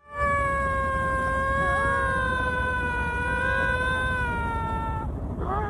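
An animal's long wailing call, held at one pitch with slight wavering for about five seconds, followed near the end by a couple of short rising calls.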